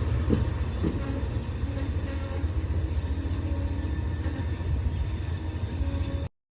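Amtrak passenger train running along the track, a steady low rumble with a couple of faint clicks about half a second and a second in. It cuts off suddenly about six seconds in.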